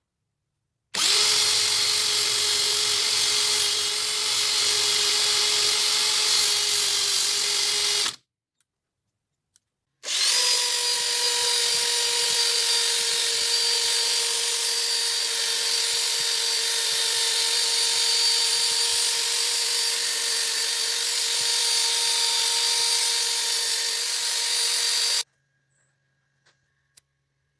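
A handheld power tool running at a steady speed with a constant whine, in two stretches of about seven and fifteen seconds. Each stretch starts and stops abruptly.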